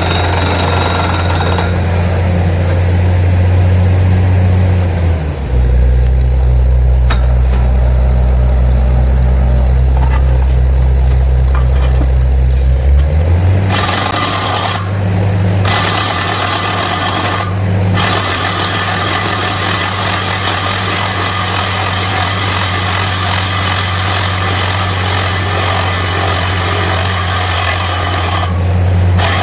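Borewell drilling rig's engine running steadily under load; its note drops lower about five seconds in and comes back up about eight seconds later. From then on a loud hiss runs over it, cutting out briefly three times.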